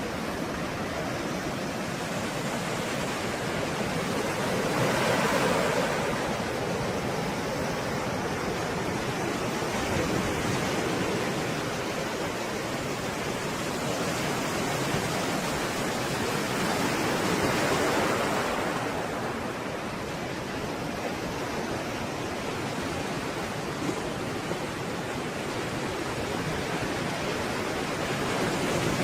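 Stormy sea waves surging and breaking in a continuous roar of surf, with bigger swells about five seconds in and again around seventeen seconds.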